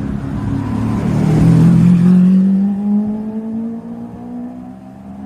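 A supercar's engine accelerating past, its note rising steadily in pitch. It is loudest about two seconds in, then fades as the car pulls away.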